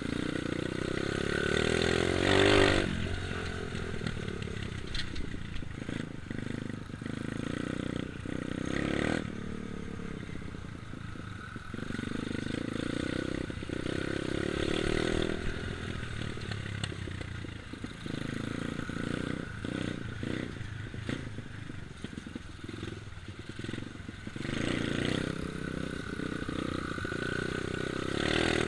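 Dirt bike engine revving and easing off as the bike rides around, its pitch rising and falling in repeated swells. It is loudest about two to three seconds in and again near the end.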